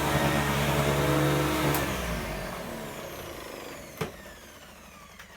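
Vintage 1979 Electrolux 504 upright vacuum cleaner running steadily, fitted with what the owner thinks is a Contour motor. Just under two seconds in it is switched off with a click, and the motor winds down in a falling whine. A sharp knock comes about four seconds in.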